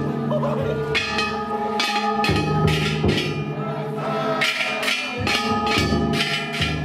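Ishidori Matsuri festival cart's large bronze kane bells struck over and over with hammers, each stroke clanging and ringing on, with a deep taiko drum beating underneath.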